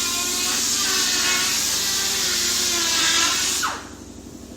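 Power tool running with a loud hiss and a whine that wavers in pitch, then spinning down with a falling whine about three and a half seconds in.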